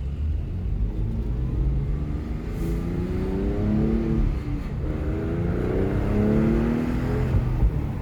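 Porsche 997's flat-six engine accelerating hard, rising in pitch, then dropping with an upshift about four and a half seconds in before rising again through the next gear.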